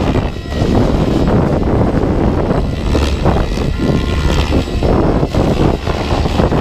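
Wind buffeting the microphone in gusts, over the steady whine of an electric-powered SAB Kraken 700 RC helicopter's motor and rotor in flight.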